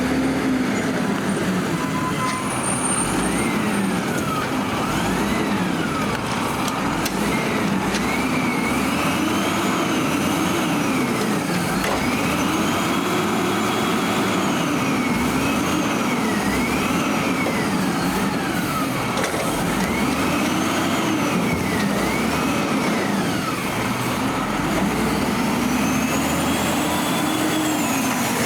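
Diesel engine of a Peterbilt 320 Amrep Octo garbage truck revving up and falling back over and over, a swell in pitch every two to three seconds.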